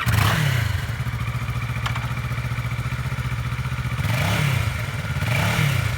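2013 Kawasaki Ninja 650's fuel-injected, liquid-cooled parallel-twin engine starts up, its revs quickly settling to a steady idle. Near the end the throttle is blipped twice, the revs rising and falling each time.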